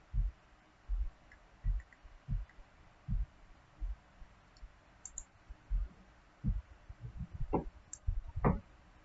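Computer mouse clicks, irregular, roughly one a second, heard as short dull knocks, with two sharper clicks near the end.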